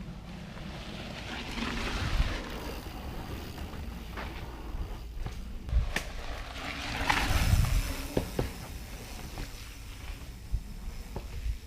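Mountain bike being ridden on a dirt trail: wind rushing over the microphone, with tyre rumble and a few short knocks and rattles from the bike over bumps.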